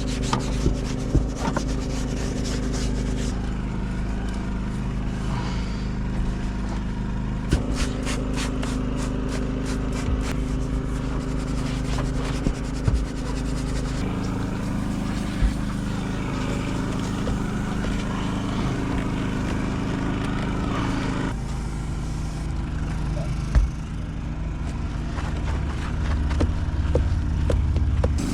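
A steady machine hum with scattered clicks and scrubbing or scraping sounds. The hum's pitch changes suddenly three or four times.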